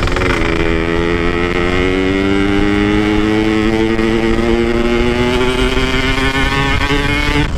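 Motorcycle engine pulling under load on an uphill climb, its revs rising slowly and steadily, with low wind rumble on the microphone.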